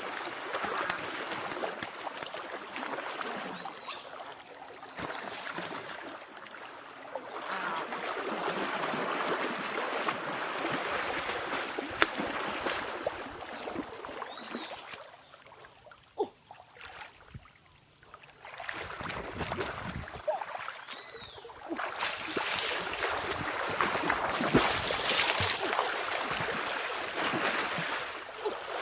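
Water sloshing and splashing, swelling and fading, with scattered sharp clicks and knocks.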